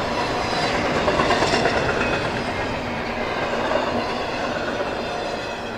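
Intermodal freight train's cars rolling past at speed, wheels clacking over the rail joints, the sound easing off near the end as the train goes by.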